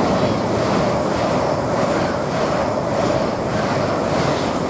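LNER Class 801 Azuma electric train passing through the station at speed. It makes a loud, steady rush of wheel and air noise with a steady hum running under it.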